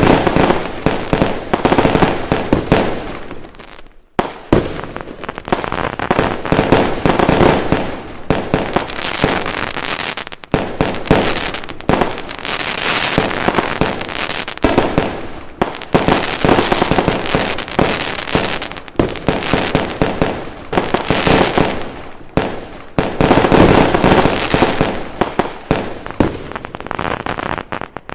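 Fireworks going off: a dense, continuous barrage of bangs and crackling, with a brief lull about four seconds in.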